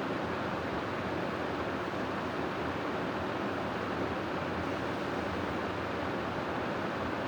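Steady wind noise of a sleep-sound track: an even, unbroken rush that holds one level throughout, with no gusts or swells.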